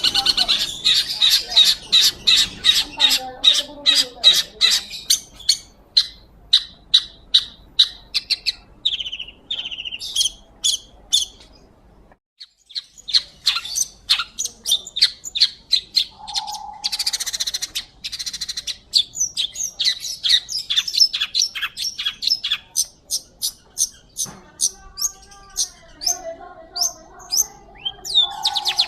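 Long-tailed shrike (pentet) singing loudly in long trains of sharp, rapid chattering calls, two to three a second, with a harsh buzzy call midway. The song breaks off briefly near the middle, and lower warbling notes come in near the end.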